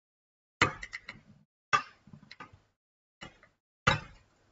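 Sharp clicks and knocks of laptop parts being handled on a bench during disassembly: four main knocks, some with light rattling ticks after them.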